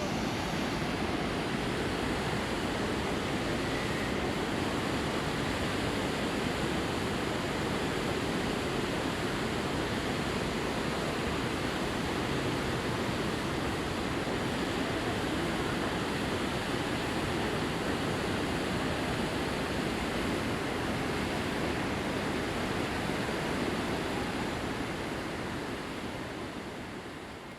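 Steady rushing of the Kamo River's flowing water, an even wash of noise that fades out at the end.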